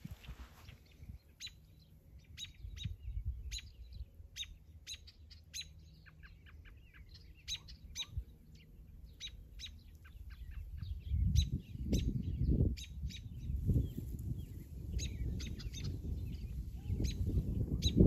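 Small birds chirping: many short, high calls scattered through the whole stretch. From about eleven seconds in, a louder low rumble comes in under them.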